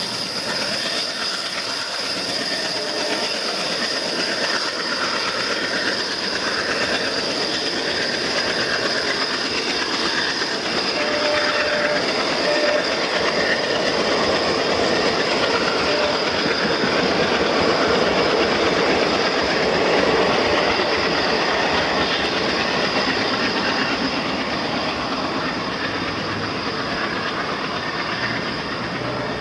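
Passenger coaches of an express train running past at speed, the wheels clattering over the rails with some squeal. The noise grows louder through the middle and eases near the end as the tail of the train pulls away.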